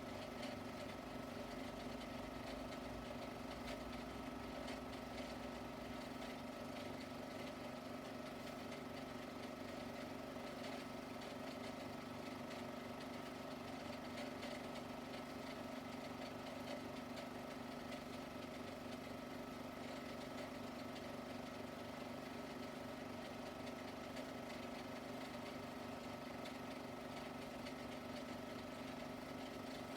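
A steady motor hum with hiss, unchanging in pitch and level throughout.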